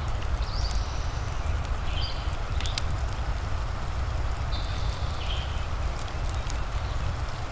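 Wood fire crackling with scattered sharp pops over a steady hiss of rain and a low rumble. A few short high chirp-like tones come and go.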